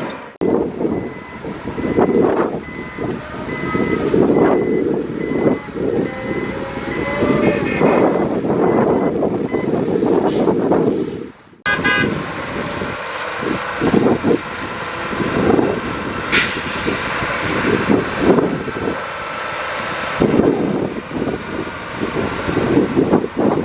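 Diesel engines of a dump truck and bulldozer running under load. A high, repeated beeping tone sounds through about the first seven seconds. The sound drops out briefly about halfway through.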